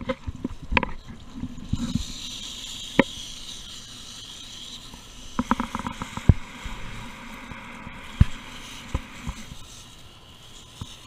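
Water spraying from a hose onto an air-conditioner condenser unit, a hiss strongest in the first half, with scattered sharp knocks and clicks from handling against the unit.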